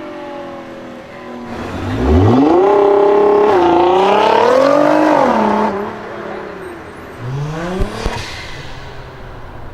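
Nissan GT-R R35's twin-turbo V6 under hard acceleration: the engine note falls off, then climbs sharply about two seconds in and stays loud with rising pitch for a few seconds before dropping away. A second, shorter rev follows near the end, with a couple of sharp cracks.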